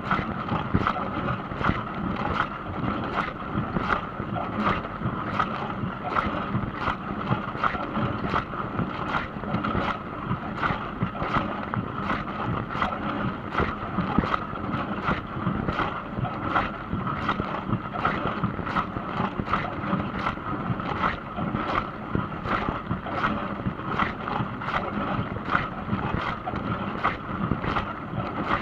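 Dishwasher running mid-cycle: water spraying inside the tub over a steady pump hum, with a regular swish a little more than once a second.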